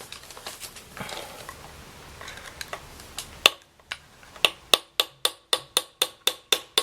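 Light, rapid hammer taps on an impact screwdriver, driving a Woodruff key into its slot on a gear shaft in a 164FML engine, with a metallic ring to each tap. First comes a few seconds of handling and scraping, then a single tap, and from a little past the middle a steady tapping of about four taps a second.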